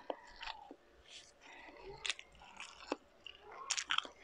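A person biting and chewing food, with scattered sharp mouth clicks that are loudest in a cluster near the end.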